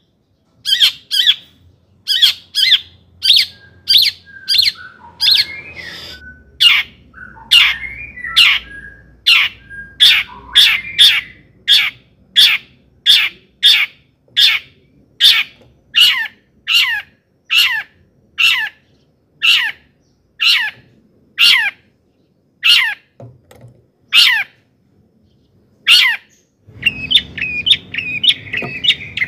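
Long-tailed shrike (cendet) giving a long series of sharp, harsh calls, each a quick downward sweep, a little over one a second. Near the end it breaks into faster, varied chattering song.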